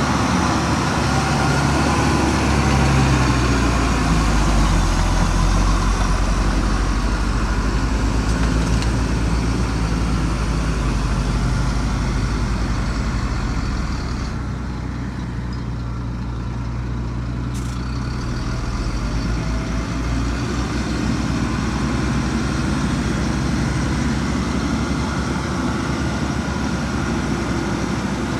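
Heavy diesel engine of earthmoving equipment running steadily, with a deep, even engine note that eases slightly about halfway through before picking up again.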